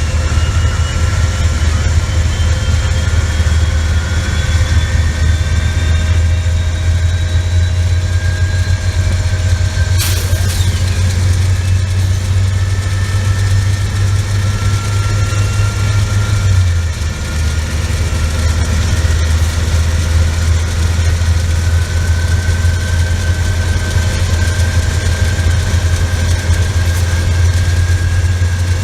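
An engine running steadily with a heavy low drone and faint whines slowly rising in pitch. There is one sharp click about ten seconds in.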